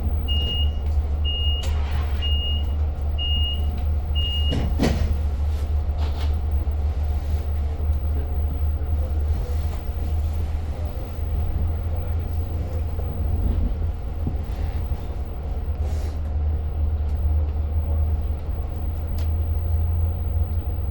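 Commuter train door-closing warning: a high beep repeating about once a second, ending about four and a half seconds in, with the doors knocking shut around then. A steady low diesel rumble from the train runs underneath.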